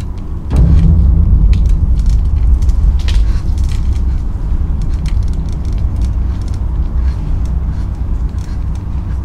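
Riding a bicycle, heard from the rider's camera: a low wind rumble on the microphone that jumps up suddenly about half a second in, with light rattling clicks from the bike over the path.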